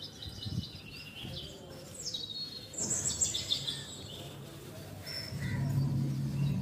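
Small birds chirping and calling, with a few quick falling calls about two to three seconds in; a low steady hum comes in about five seconds in.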